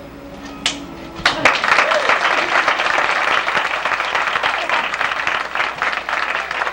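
The last held sung note of a children's song fades, then an audience breaks into steady applause about a second in.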